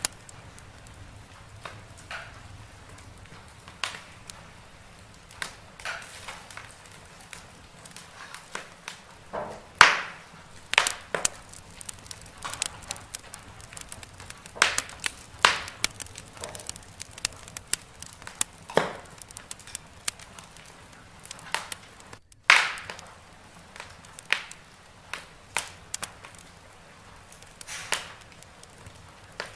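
Wood fire crackling in a fireplace: sharp, irregular pops and snaps about a second apart over a soft steady hiss, with a few louder pops standing out.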